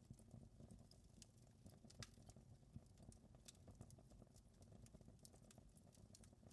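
Wood fire crackling faintly: irregular sharp pops and snaps over a low rumble.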